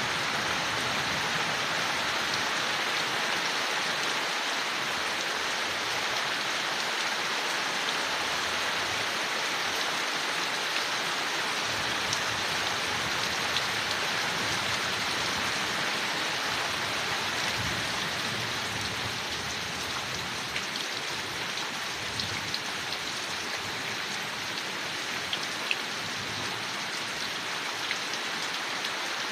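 Steady rain falling on leaves, an even patter with occasional single drops ticking out, easing slightly in the second half.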